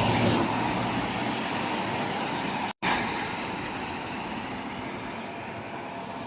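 Steady rushing noise of a truck ride in heavy rain, with engine, road and rain sounds blended and no clear tones. It cuts out abruptly for a moment just before the halfway point, then carries on, slowly getting quieter.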